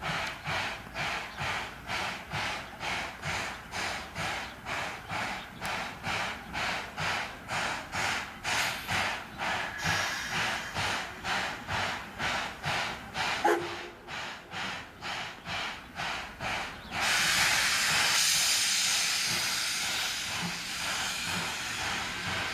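C11 steam tank locomotive puffing steam in an even rhythm, about two puffs a second, with a brief squeak partway through. About 17 seconds in, a loud burst of hissing steam starts and then slowly eases, while the puffing goes on underneath.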